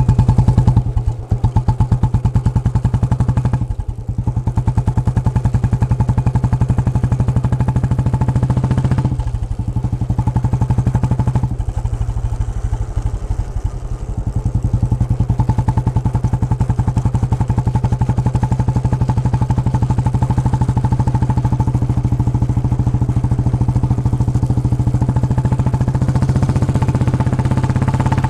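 Royal Enfield Bullet's single-cylinder engine thumping while being ridden, through a stock bend pipe with its baffles removed and a K Indori silencer, tuned for the slow beat of the old cast-iron-engine Bullet. The exhaust note dips briefly a few times in the first half, then runs on steadily.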